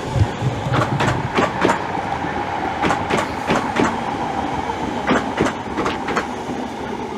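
Class 315 electric multiple unit running into the platform, its wheels clicking irregularly over rail joints, with a steady whine underneath.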